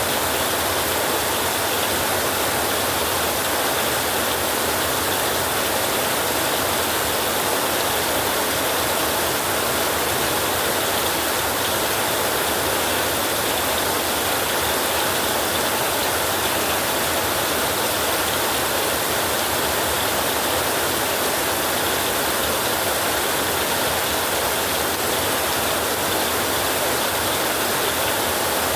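Heavy rain falling steadily on a roof, a dense, even hiss of drops that stays the same throughout with no thunder.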